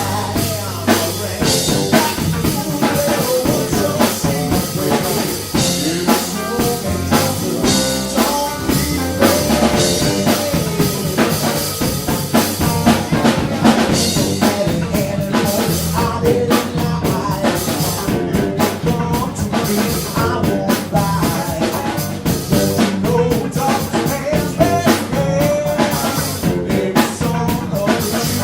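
Live band playing, with a drum kit keeping a steady, busy beat over a moving bass line.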